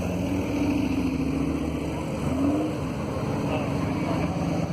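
A car engine running steadily, its pitch lifting briefly about two seconds in, with people's voices murmuring in the background.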